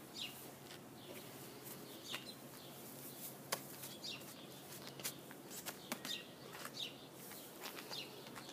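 Faint outdoor ambience with small birds chirping now and then, and a few light clicks.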